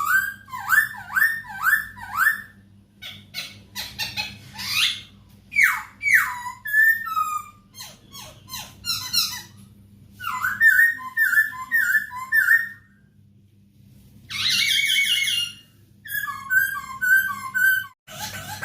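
Poksay hongkong, a laughingthrush, singing in rapid runs of loud slurred whistled notes, with a brief pause about two-thirds of the way through and a harsher, rasping call just after it before the whistling resumes. A faint steady low hum lies underneath.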